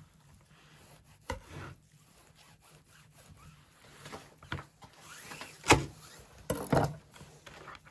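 Wooden knocks and scraping: a few separate clatters, the loudest about six seconds in, with rubbing and rasping between them.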